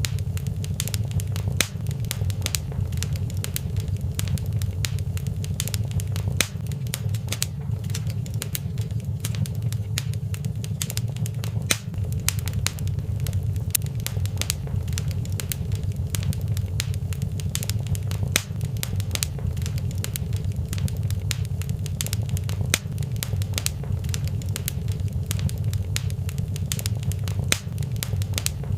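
Wood fire burning in a fireplace, crackling with frequent sharp pops over a steady low rumble of flames.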